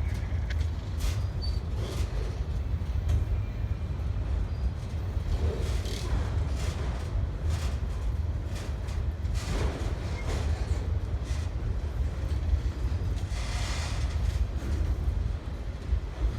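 Freight train rolling past: a steady low rumble with scattered knocks from the wheels and cars.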